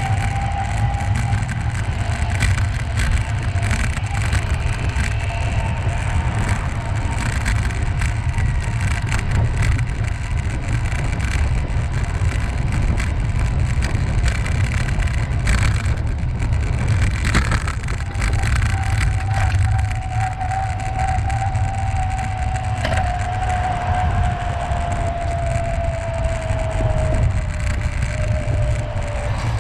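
Steady wind rumble on the microphone mixed with rolling noise while riding, with a faint tone slowly falling in pitch in the second half.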